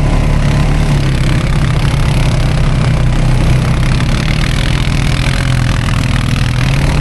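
ATV engine running steadily at low speed, its pitch starting to rise near the end.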